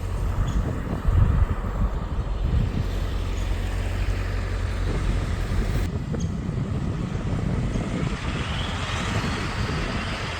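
2001 Ford F-250's 7.3-litre Power Stroke V8 diesel running steadily, a low even drone with some noise over it; the sound changes abruptly about six seconds in.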